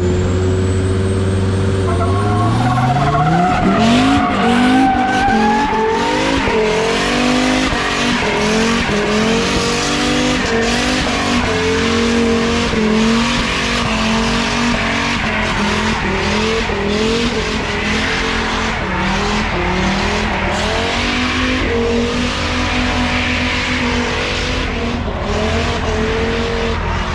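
Volvo 740's engine running steadily, then revving up sharply about two to three seconds in and held at high revs, its pitch rising and falling. A loud tyre squeal runs under it through a burnout.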